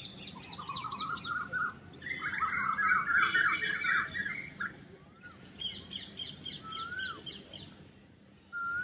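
Several kinds of birds singing and calling together: fast runs of high chirps, a dense chattering burst about two seconds in, and a short rising-and-falling whistle repeated three times.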